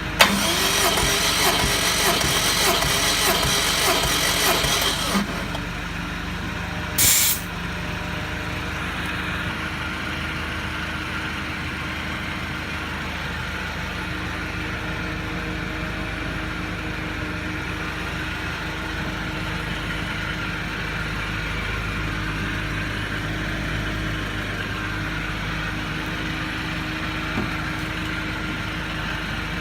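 Subaru Impreza WRX engine cranking over on its starter for about five seconds during a compression test, with no start. About two seconds later comes a short hiss of air, typical of a compression gauge's pressure being let out, and a steady low hum continues under the rest.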